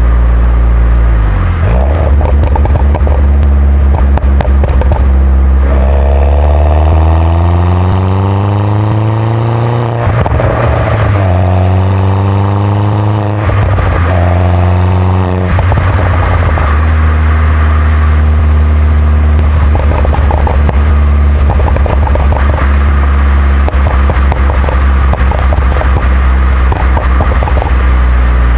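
Mini R57 John Cooper Works' turbocharged 1.6-litre four-cylinder engine and stock exhaust on the move. The engine note rises through a gear from about six seconds in, drops at a shift near ten seconds, rises again and drops around fourteen seconds, then holds fairly steady.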